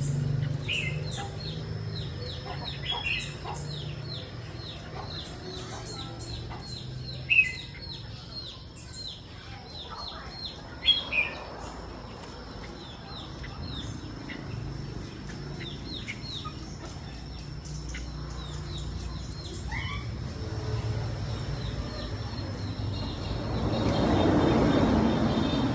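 Red-whiskered bulbul calling: a quick run of high chirps, several a second, through the first half, with a few louder short notes standing out, one about seven seconds in and a pair about eleven seconds in. A steady thin high tone sounds beneath, and a rushing noise swells near the end.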